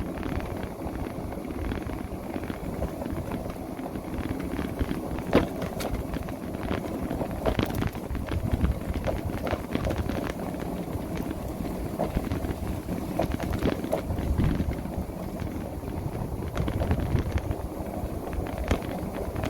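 Wind rushing over the microphone and rumble from the ride of an electric motorbike moving at speed, with a few scattered clicks and knocks.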